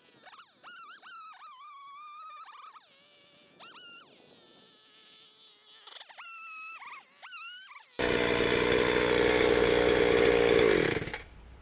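Gas chainsaw running loud and steady, then bogging down near the end, its pitch falling as it dies: the saw is running out of fuel. Before it starts there are quieter, high, wavering whining tones that come and go.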